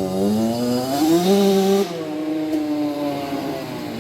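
Small dirt-bike engine revving: its pitch climbs over the first second or so, holds briefly at the top, then drops sharply a little before halfway and runs on at a lower, steadier pitch.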